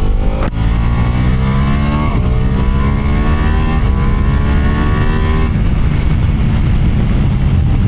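Motorcycle engine accelerating up through the gears. Its pitch rises and drops back at each shift, about two and four seconds in, then it levels off near the middle as the throttle eases.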